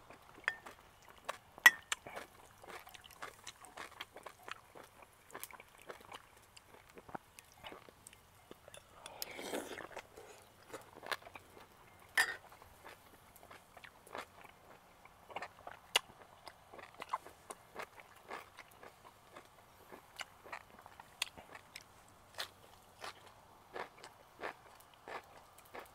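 A person eating close to the microphone: chewing with many small, irregular clicks. A metal spoon clinks against a soup bowl a couple of times, loudest about two and twelve seconds in.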